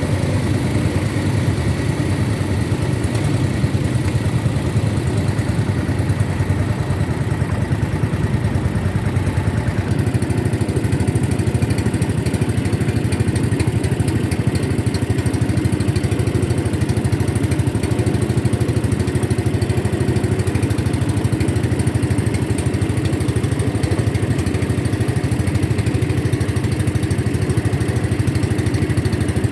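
Boat engine running steadily at an even speed, a constant low hum with no change.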